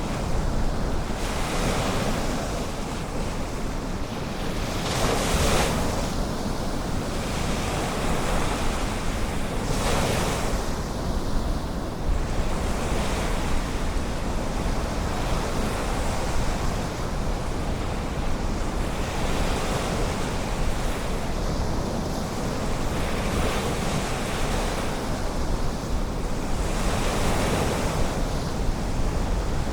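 Ocean surf breaking and washing onto a beach: a continuous rush, with louder breakers about five and ten seconds in. Low wind rumble on the microphone lies underneath.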